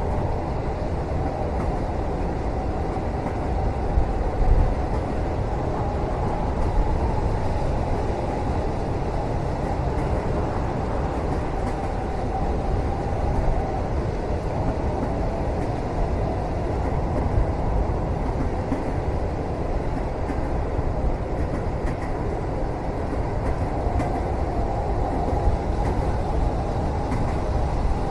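Steady low rumble of a moving passenger train heard from inside a railway cabin, with a brief louder bump about four seconds in.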